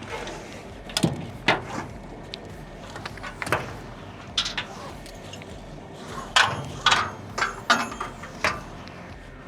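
Ratchet tie-down straps being released and unhooked: a string of irregular metallic clicks and clanks from the ratchet buckles and hooks.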